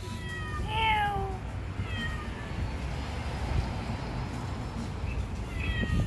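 Stray cat meowing several times, with short calls that fall in pitch; the loudest is about a second in and another comes near the end, over a steady low rumble.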